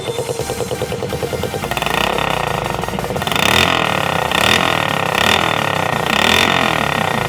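Engine running through a homemade exhaust, revved up and down in repeated blips about once a second.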